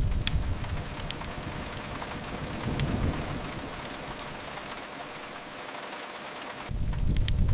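Steady rain with the sharp pops and crackles of a wood fire. A deep low rumble, like distant thunder, is loud at the start, swells briefly around the middle and builds again near the end.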